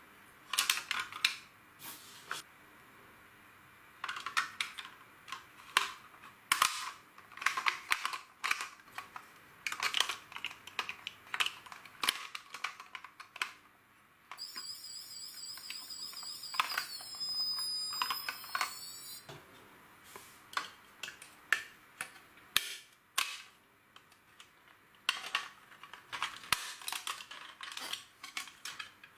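LEGO plastic bricks clicking and snapping as they are handled, a long run of irregular sharp clicks. About halfway through, a high warbling electronic tone sounds for about five seconds.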